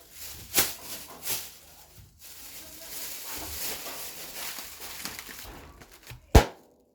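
Handling noises from work on a speaker's wiring: a few light clicks, then rustling, then a single sharp knock near the end, the loudest sound.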